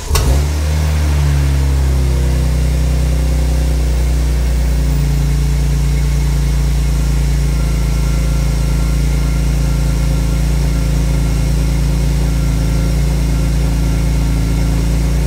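BMW E46 M3's S54 inline-six, freshly fitted with Megan Racing headers and the first exhaust section, catches with a brief flare right at the start and then settles into a loud, steady idle.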